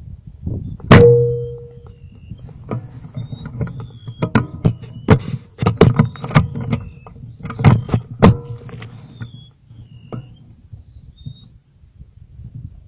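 A PCP air rifle fires once about a second in, a sharp crack with a brief ringing tone after it. A run of irregular clicks and knocks follows for several seconds, with short high chirps in between.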